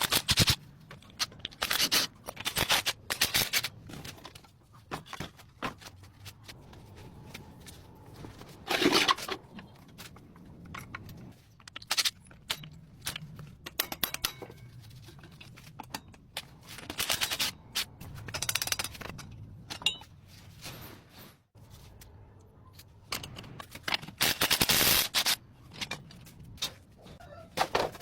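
Irregular scrapes and sharp clicks, some of the scrapes lasting about a second, with short gaps between them.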